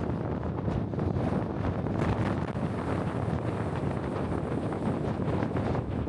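Strong wind buffeting the microphone: a steady, gusty low rumble with rapid flutters.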